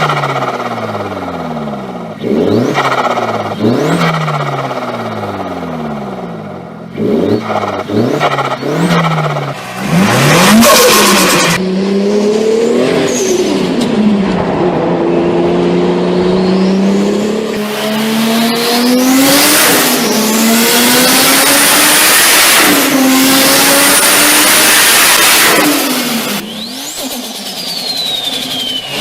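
Turbocharged tuned car engines revving hard, the engine pitch climbing and dropping again and again, then climbing steadily under long acceleration. Loud hissing bursts break in a few times, and a faint high turbo whistle rises slowly over the engine in the second half.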